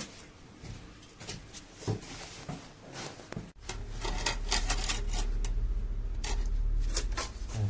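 Clicks and knocks of tools and parts being handled. About halfway through, a steady low hum starts suddenly and runs on under continued clatter.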